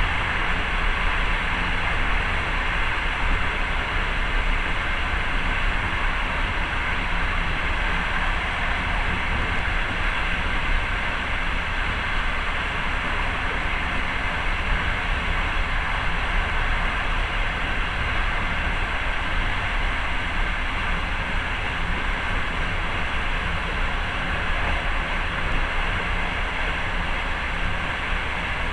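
Passenger train running along the track, heard from inside the carriage: a steady noise of wheels on rails with no distinct beats.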